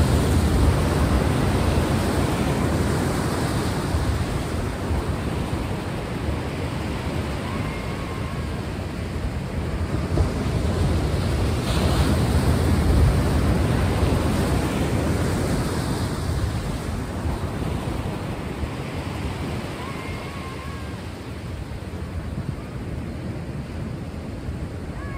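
Sea waves washing onto a shore in slow swells, rising to a peak near the start and again about halfway, then easing off.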